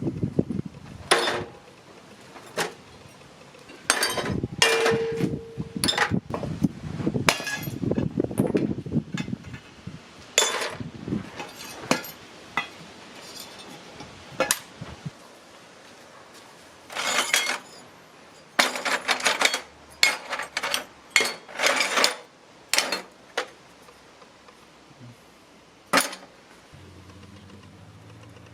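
Irregular metallic knocks and clinks of scrap metal parts and tools being struck and handled, in uneven clusters. One stroke about five seconds in rings briefly.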